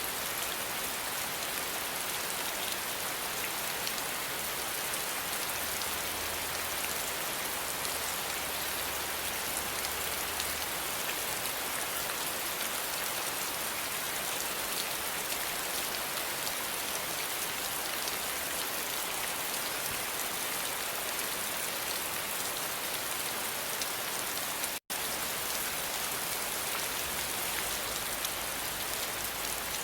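Steady rain falling, an even hiss of many drops, broken by a split-second drop-out about 25 seconds in.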